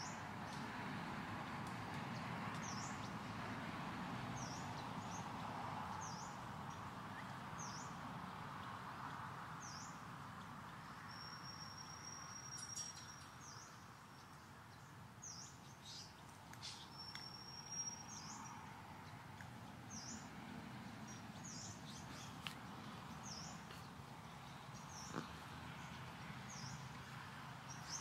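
Forest ambience: a bird repeats a short high chirp about every second, over a steady outdoor hiss. Near the middle come two longer thin steady whistles, and there are a few faint clicks.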